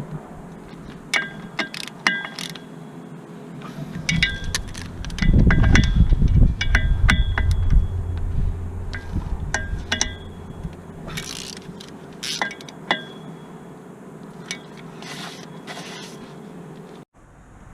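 Metal tools and parts clinking and scraping during hands-on mechanical work, with short ringing metallic clinks throughout and a louder low rumble of handling in the middle.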